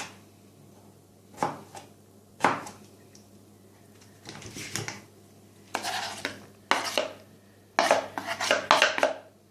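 A kitchen knife knocking on a cutting board a few separate times, then a run of clattering knocks of knife against board and dishware as chopped vegetables are handled.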